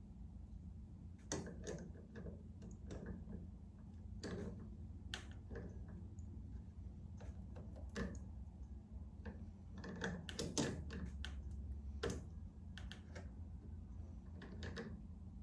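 Irregular clicks and knocks of hands and a tool working the propeller nut on an electric motor shaft, over a low steady hum.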